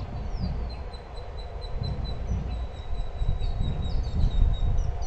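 A bird calling a rapid, even series of short high notes, about five a second, that stops a little before the end, over a low gusty rumble.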